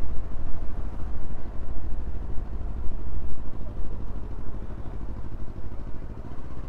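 Motorcycle engine running at a steady speed while riding, with wind rumbling on the microphone.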